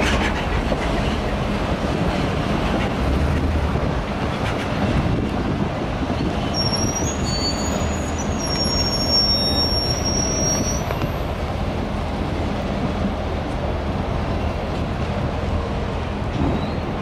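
CSX freight train of autorack cars rolling past, a steady rumble of wheels on rail. Thin high-pitched wheel squeal comes in about six seconds in and stops about five seconds later.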